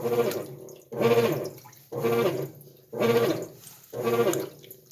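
GE belt-drive top-load washing machine agitating a load in water: a rhythmic swish with a humming drone on each stroke, about one stroke a second.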